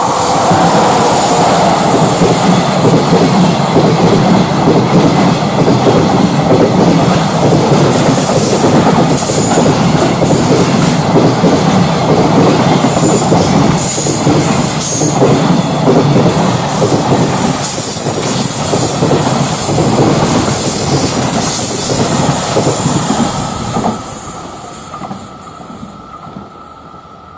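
A long freight train of container wagons passing close by, wheels clacking rapidly over the rail joints with some high wheel squeal. The noise stays loud for about 24 seconds, then drops away suddenly as the last wagon goes by and fades.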